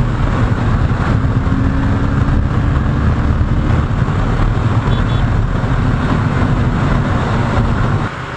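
Kawasaki Ninja 650 parallel-twin engine running hard at highway speed under heavy wind rush on the helmet microphone, a steady low drone. The level drops about eight seconds in.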